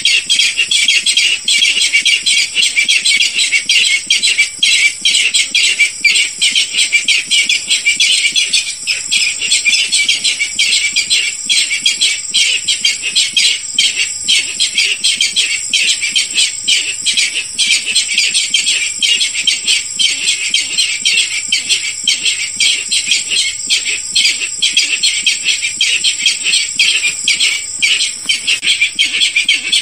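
Barred rail calls played as a hunting lure: a dense, unbroken run of rapid harsh notes, several a second, with a steady high drone underneath.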